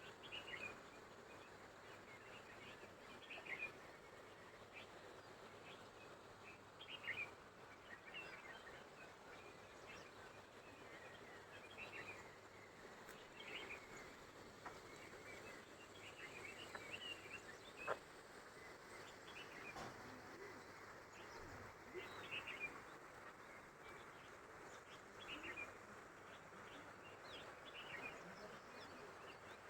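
Faint hillside ambience with small birds chirping now and then in short calls over a low steady hiss, and a single sharp click about two-thirds of the way through.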